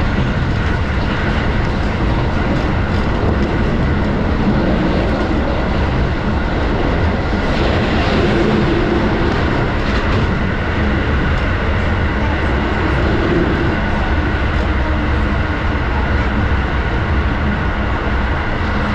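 Keio Line train running at speed, heard from inside the passenger car: a steady, even rumble of wheels on rail with a faint steady hum over it.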